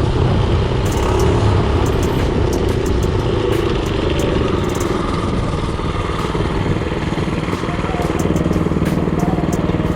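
Mini-bike's Predator 224cc single-cylinder four-stroke engine running steadily while riding, with scattered short ticks and rattles over it.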